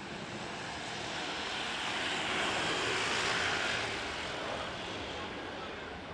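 Jet airliner's engines passing by, a rushing noise that swells to a peak mid-way and then fades.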